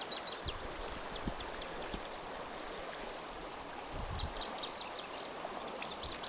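Running stream water with small birds chirping in quick, high twitters: a spell at the start and another from about four seconds in. A few low thumps are heard under the water.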